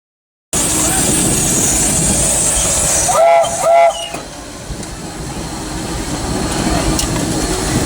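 Disneyland Railroad steam locomotive running, a steady rumble and hiss heard from the cab. Its steam whistle gives two short toots about three seconds in.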